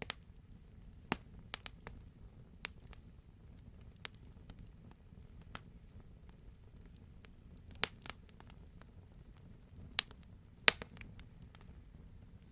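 Campfire burning: a low steady rumble with scattered sharp crackles and pops from the burning logs, the loudest two near the end.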